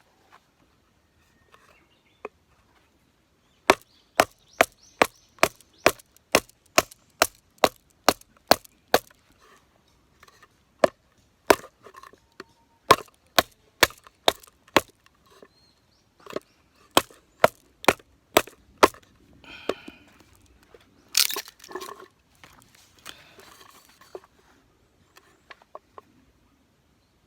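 A knife is being batoned into firewood: a wooden baton strikes the blade's spine in quick runs of sharp wooden knocks, about two to three a second, with short pauses between the runs. Near the end there is a louder splintering crack.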